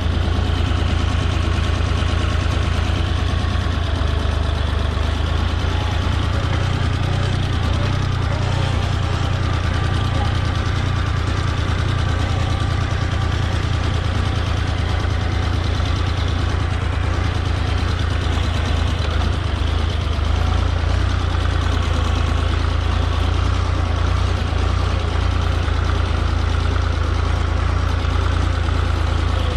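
Tractor engine running steadily at a constant speed, a continuous deep drone with no change in pitch.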